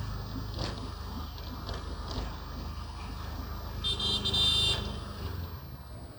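Motorbike engine running steadily during the ride. About four seconds in, a high-pitched horn beeps once for just under a second and is the loudest sound.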